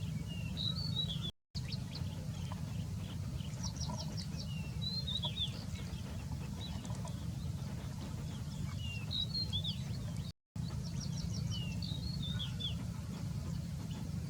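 Small birds chirping, with short sweeping calls and quick trills repeated over and over, above a steady low rumble. The sound cuts out briefly twice.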